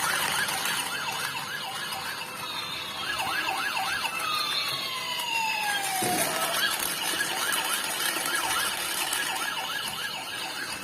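Electronic siren from a battery-powered toy emergency vehicle: a fast warbling wail, overlapped by long falling sweeps that each drop over a couple of seconds.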